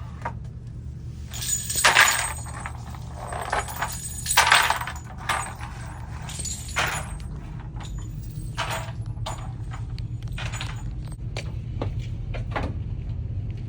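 Spent brass cartridge casings clinking and rattling together in several separate bursts as they are gathered up from the floor, the loudest about two seconds in and again near the middle, over a steady low hum.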